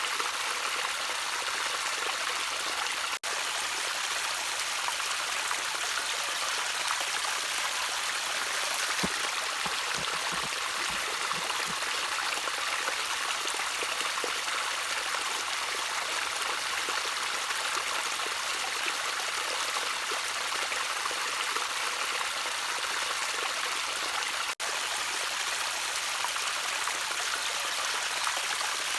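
Gently trickling stream: a steady hiss of running water with small bubbling notes. The sound cuts out for an instant twice, about three seconds in and again about twenty-five seconds in.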